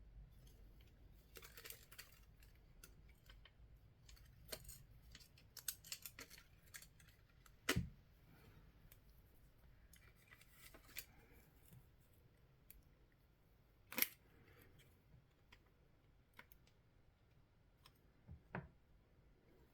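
Scattered small clicks, scrapes and taps of hands and tools working on a Xiegu X6200 radio as it is taken apart, with sharp knocks about eight and fourteen seconds in.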